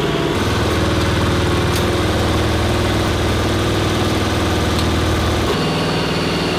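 Powered ammunition loading machine for a 20 mm Vulcan cannon running with a steady mechanical drone. Its sound shifts about five and a half seconds in, with the deep part dropping back.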